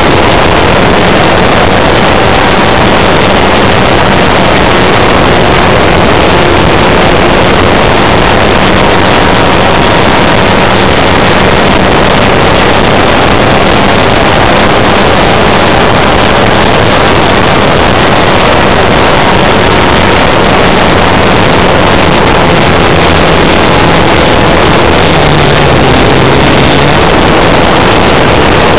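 The JBA 75 engine of an Extra 300S Seagull RC model airplane running steadily in flight, heard close up from a camera on the plane, so loud that it is heard as a dense, distorted rush. Its pitch dips slightly near the end.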